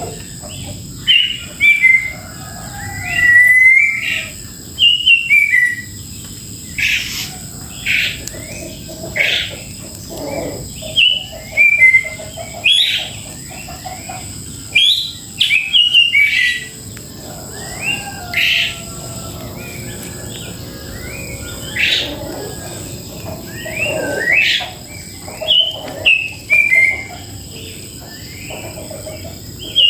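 Songbirds chirping and calling: a busy run of short chirps and whistled notes, with several quick sharp upward notes.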